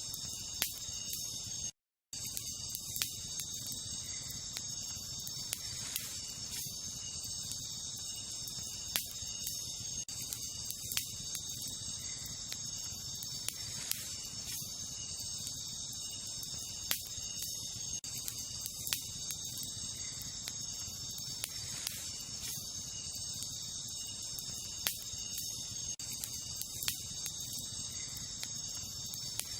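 Wood fire crackling, with scattered sharp pops every second or two, over a steady high chorus of night insects. The sound cuts out completely for a moment about two seconds in.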